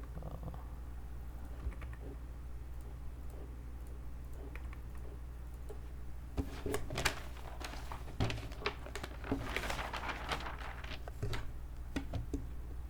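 Computer keyboard typing and mouse clicks: a few scattered clicks, then a quick run of keystrokes starting about six seconds in and lasting some five seconds, over a steady low hum.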